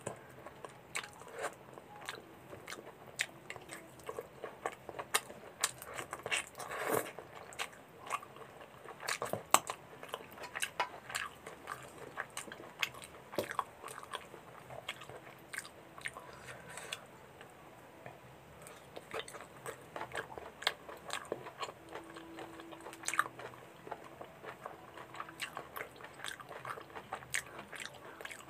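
A person biting and chewing mutton pieces in gravy: many irregular sharp clicks and crunches, with a quieter stretch about two-thirds of the way through.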